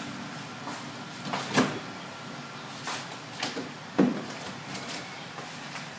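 Kitchen things being handled: a series of short knocks and clunks a second or so apart, the loudest about four seconds in.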